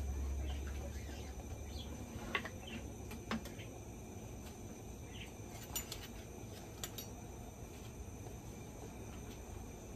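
Diced onions sizzling gently in hot oil in a frying pan, a steady fine hiss with scattered small crackles. A low hum runs underneath and stops about two seconds in.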